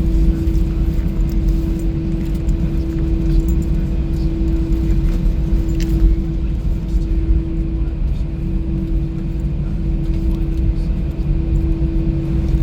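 Airbus A319 cabin noise while taxiing after landing: a steady low rumble of the idling engines and rolling airframe with a constant hum and a few faint clicks.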